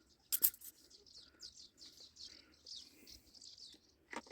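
Faint, rapid bird chirping, with a sharp click about half a second in and another near the end.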